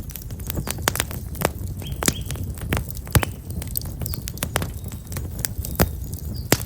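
Black locust firewood burning in an open fire, crackling with irregular sharp pops. Small birds chirp briefly now and then.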